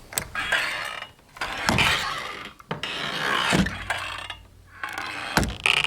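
Swinging saloon doors creaking on their hinges as they swing back and forth: several creaks with short pauses between them, and a low knock near the end.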